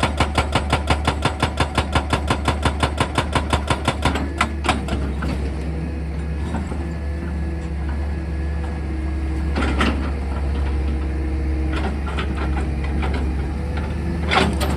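Excavator-mounted hydraulic rock drill hammering rapidly, about five blows a second, over a steady low diesel engine drone. About four seconds in the hammering stops and the engine keeps running alone, with a few single knocks, until the hammering starts again at the very end.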